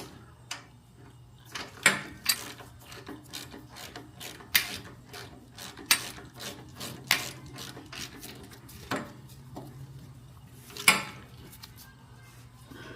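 Socket ratchet clicking in short irregular runs as bolts are tightened on a motorcycle's rear brake master cylinder mount, with a few louder sharp metal clinks.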